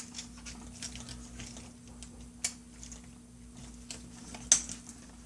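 A few scattered small plastic clicks and taps as a laptop's plastic cover piece is dropped and fitted into place, the sharpest about four and a half seconds in, over a faint steady hum.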